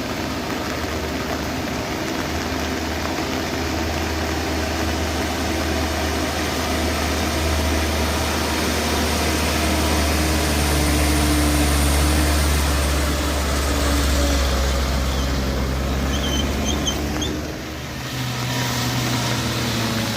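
Front-wheel-drive car's engine running under load as it climbs a steep unpaved incline. It grows louder through the middle and fades about three-quarters of the way through, when a second vehicle's engine comes in.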